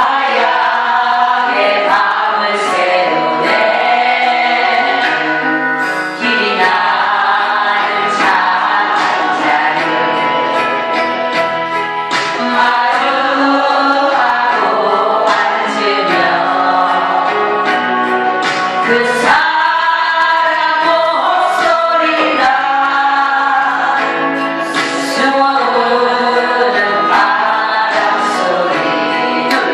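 A Korean ballad playing: singing over a full instrumental backing.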